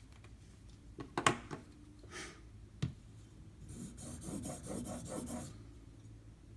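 A few light clicks and knocks, then about two seconds of scraping as a knife edge is stroked across a 2000-grit sharpening stone in a guided sharpening clamp. These are test strokes on a Sharpie-marked bevel to check where the stone meets the edge.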